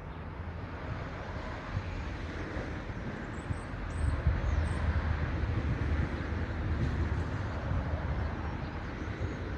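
Wind buffeting the microphone outdoors: an uneven rumbling noise that rises and falls, with a few faint high chirps about halfway through.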